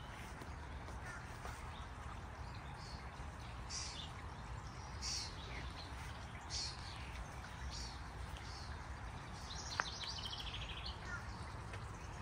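Birds chirping: scattered short high calls, then a rapid trill of repeated notes near the end, over a steady low background rumble. A single sharp click about ten seconds in.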